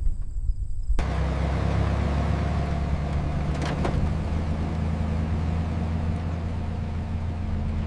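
An engine running steadily with a low hum, which starts with an abrupt change of sound about a second in.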